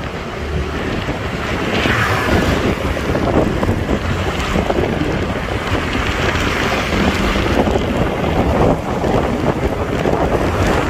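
Vehicle driving along a road: a steady low engine and road rumble under heavy wind noise buffeting the microphone.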